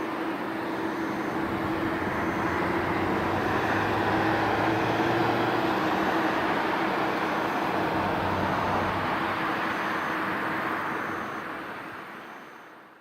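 Jet airliner on final approach passing the spotting hill: engine noise with a steady fan hum, building to its loudest about four to five seconds in, then fading away near the end.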